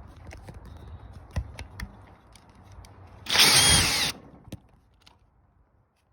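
Handheld power drill run in one short burst of under a second with its bit against metal, the motor's whine bending up and down, after a few light clicks of handling.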